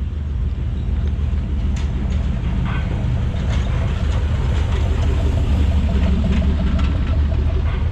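Car engine running at low speed close by, a steady low drone with a fast, even pulse.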